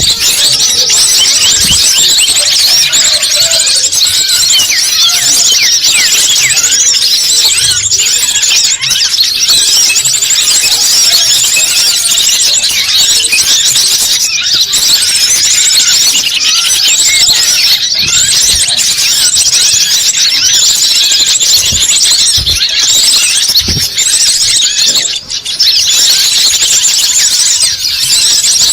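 Dense, loud, unbroken chorus of many small birds chirping rapidly at high pitch, a lure-bird call recording of the kind played to draw wild birds in.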